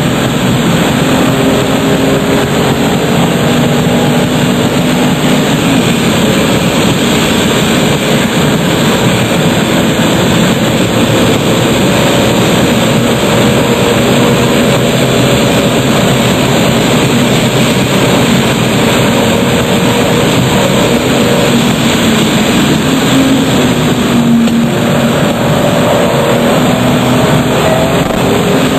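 RUF CTR Yellow Bird's twin-turbocharged flat-six running hard at speed, its pitch rising and falling as it changes gears, with a short lift about three-quarters of the way through. Heavy wind and road noise run underneath.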